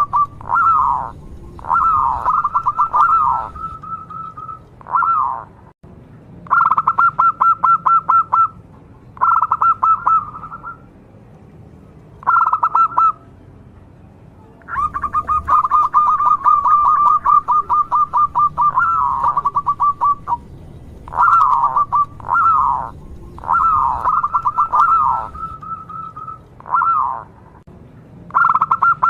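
Zebra dove (perkutut) cooing: phrase after phrase of rapid, staccato notes, some ending in falling slurs, separated by short pauses, with one longer trilled phrase about halfway through.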